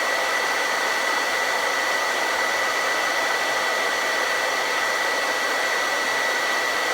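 Hand-held blow dryer running steadily, a rush of blown air with a thin, steady whine on top.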